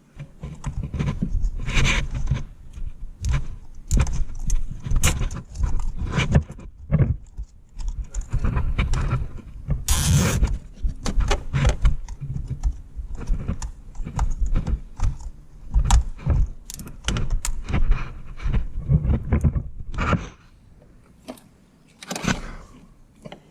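Zip tie being fastened around an automotive wiring harness: irregular plastic clicks, rattles and knocks with handling noise, and one short rasp about halfway through. The noise stops a few seconds before the end.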